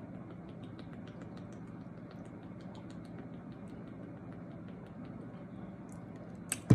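Close-up chewing of bread: small wet mouth clicks and smacks over a steady low hum, with one sharp knock near the end.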